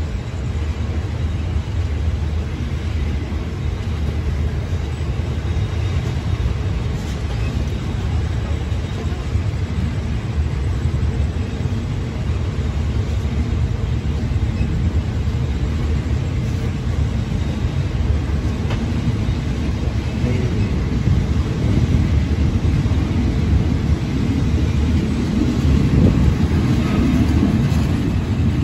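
Passenger train rolling along the track: a steady low rumble with wheel-on-rail noise, heard through an open window while passing close alongside another train. It grows louder over the last few seconds.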